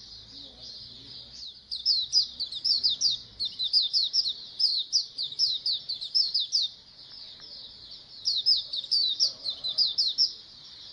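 A colony of white-eyes (pleci) singing: fast, high twittering made of quick falling notes, loud in two long spells with softer twitter in between.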